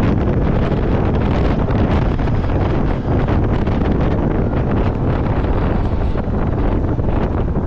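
Loud, steady wind noise buffeting the microphone of a moving off-road vehicle.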